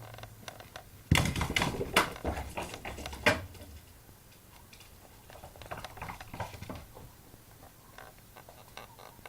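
Clatter from a Jack Russell terrier's ball play indoors: a sudden burst of sharp knocks and scrabbling taps about a second in, lasting about two seconds, then lighter scattered taps.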